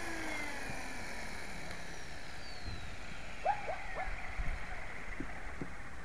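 Small electric RC helicopter (HK-450GT) spinning down after landing: its motor and rotor whine falls slowly in pitch and fades.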